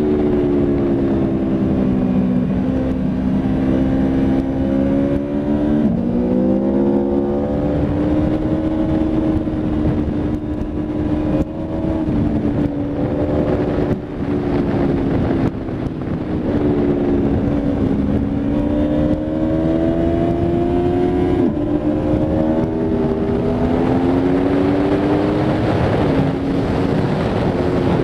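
Aprilia Tuono V4 RR's V4 engine running hard on a racetrack, its pitch sliding down and climbing again several times with throttle and gear changes, with a few sudden jumps in pitch.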